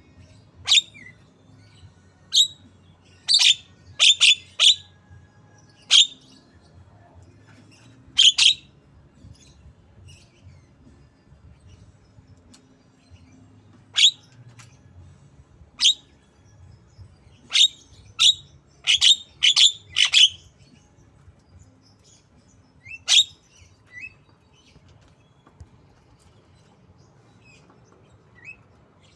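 Javan myna giving short, sharp, high-pitched calls in imitation of a white-rumped shama. The calls come singly or in quick clusters of two to four, with a long pause in the middle.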